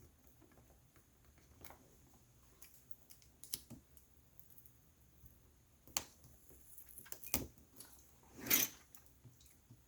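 Scattered small clicks and taps of a laptop's system board and plastic chassis being handled as the board is lifted against something still holding it, with a brief scraping rustle near the end.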